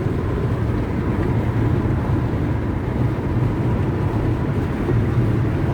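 A car's steady road noise heard from inside the cabin while driving: an even low rumble of engine and tyres.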